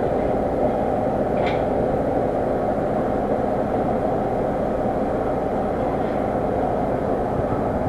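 Steady mechanical running noise, with a brief high chirp about one and a half seconds in.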